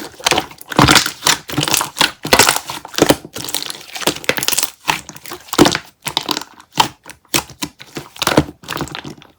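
Dense, irregular crunching and crackling: many sharp, crisp crunches in quick succession with short pauses between them.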